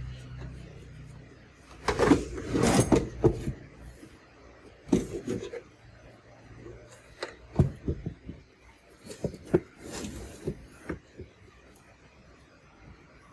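Irregular clicks and knocks of hard parts being handled and set down, densest about two to three seconds in and again near ten seconds; a low hum fades out in the first second.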